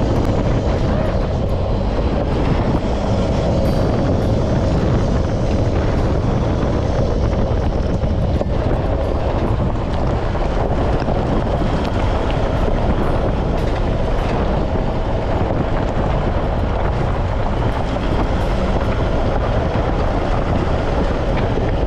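Four-wheel drive running along a dirt track: steady engine drone and tyre noise with small ticks and rattles.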